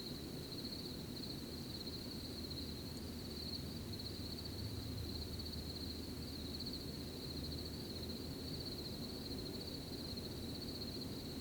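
Crickets trilling in a steady, unbroken chorus, over a soft, even background hiss.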